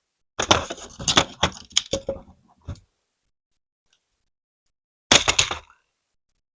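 Plastic Lego pieces clattering in dense runs of rapid clicks: one run lasts about two and a half seconds near the start, and a shorter half-second run comes near the end.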